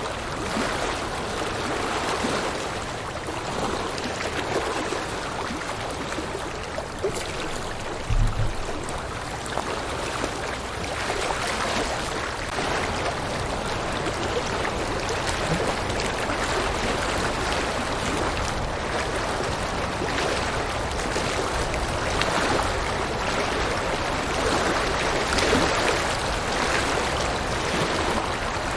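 River water flowing steadily over rocks, an even rushing sound. A brief low thump sounds about eight seconds in.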